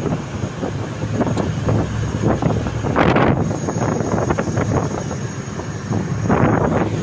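Heavy wind buffeting a phone microphone over a low steady hum, with two stronger gusts, about three seconds in and near the end.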